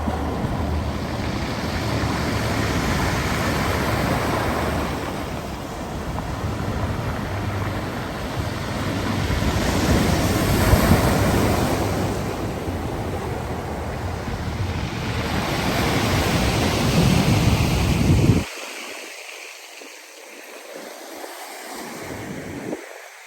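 Black Sea surf: waves breaking and washing up the shore in swells every few seconds, with wind buffeting the microphone. About eighteen seconds in the low rumble cuts off suddenly and the surf goes on more quietly.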